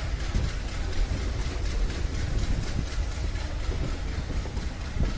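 Passenger train running along the track: a steady low rumble with a faint, regular clatter of wheels over the rails.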